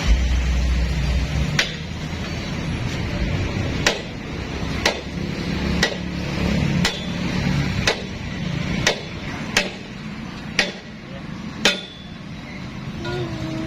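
A hammer strikes hard about ten times, roughly once a second, during work on an excavator wheel tyre being repaired on its rim. A low engine rumble runs underneath and stops about two-thirds of the way through.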